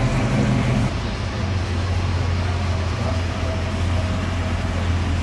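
A motor vehicle's engine running steadily with a low drone, its low note changing about a second in.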